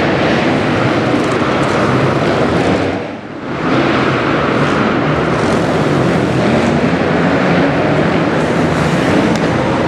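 Motocross bike engine running hard under riding, with a brief drop in level about three seconds in, as if the throttle closes for a moment before it opens again.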